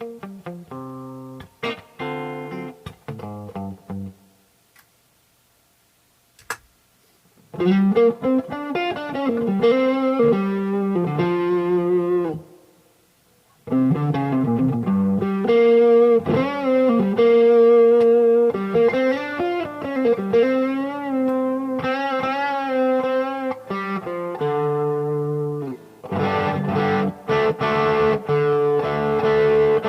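Yamaha STH 500R electric guitar played through an amp: melodic single-note phrases with string bends and vibrato, a pause of a few seconds early on, then strummed chords near the end.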